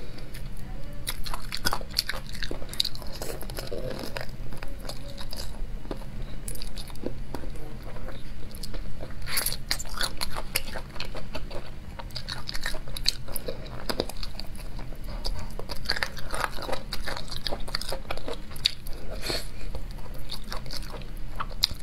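Close-up eating sounds of braised Sichuan-pepper chicken feet being bitten and chewed: wet mouth smacks and small crunches of cartilage and bone, coming in irregular runs.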